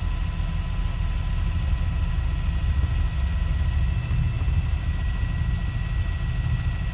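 Helicopter heard from inside the cabin: steady low rumble of engine and rotor, with faint thin steady whine tones above it.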